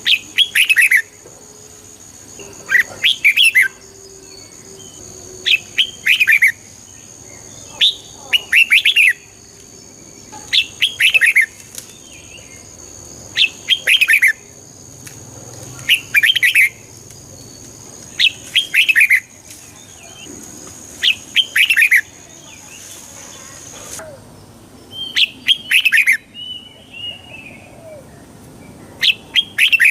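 Red-whiskered bulbul singing: short, bright phrases of a few quick notes, repeated about every two to three seconds. A faint steady high tone runs behind the song and cuts off about two-thirds of the way through.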